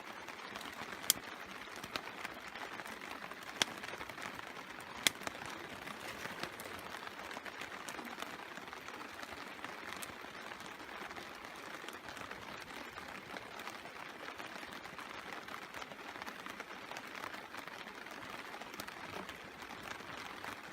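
Steady rain falling on a tarp, with a few sharp clicks about 1, 3.5, 5 and 10 seconds in.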